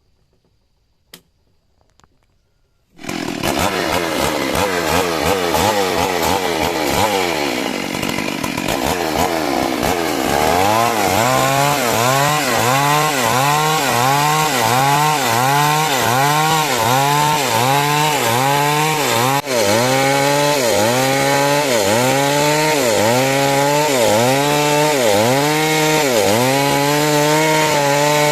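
Two-stroke chainsaw cutting timber lengthwise into rafters. It sets in abruptly about three seconds in, and from about ten seconds its engine pitch rises and falls about once a second as the chain works through the wood.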